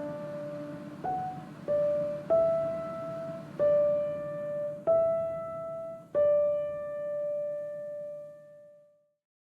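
Background piano music: a slow melody of single ringing notes, about one a second, the last note fading away near the end.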